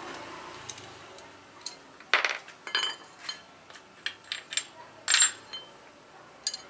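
Metal tools and small metal parts clinking and clattering, a string of sharp strikes with a bright ringing, the loudest about two seconds in and again about five seconds in.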